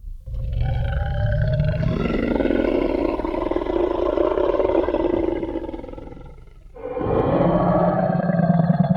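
Designed Tyrannosaurus rex roar sound effect: one long, deep roar lasting about six seconds and fading out, then a second roar starting about seven seconds in.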